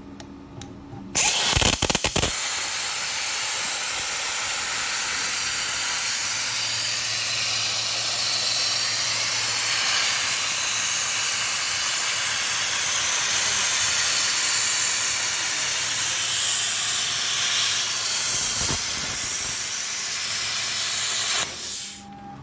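CNC plasma cutter torch cutting steel plate. The arc strikes about a second in with a short burst of loud crackling at the pierce, then holds a steady, loud hiss for about twenty seconds and cuts off shortly before the end.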